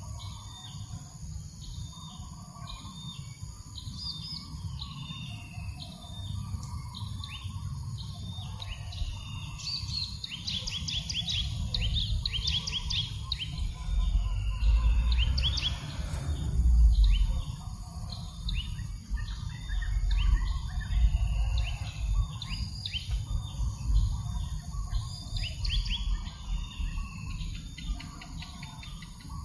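Several small birds calling: short chirps repeated over and over, with bursts of rapid trilled notes about a third of the way in and again near the end. Breeze buffets the microphone with a low rumble that comes in gusts, strongest around the middle.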